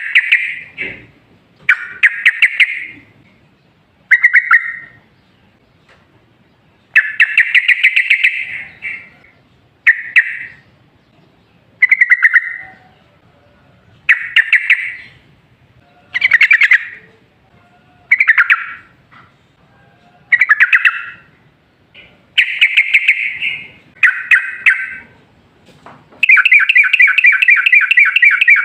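Yellow-vented bulbul (trucukan) singing loud, bubbling, chattering phrases about every two seconds. Near the end comes a longer, rapid run of notes.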